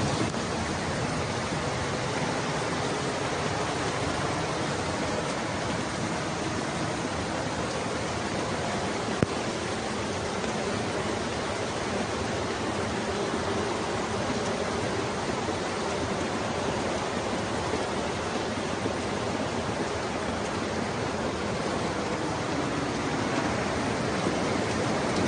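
Floodwater rushing steadily, a fast torrent of water flowing without a break.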